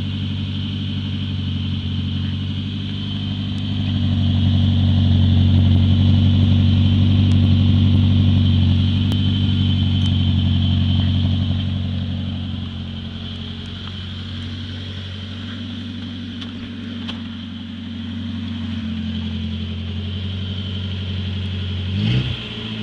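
Peugeot car's exhaust with the inner silencer baffle removed, the engine running at idle in a low steady drone that swells for several seconds and settles back. Near the end it is blipped, the note rising and falling quickly.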